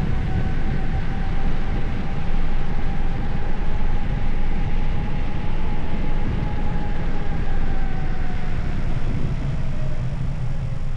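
Wind rushing over the microphone during a bicycle ride, a loud steady rumble with a faint steady whine that fades about nine seconds in.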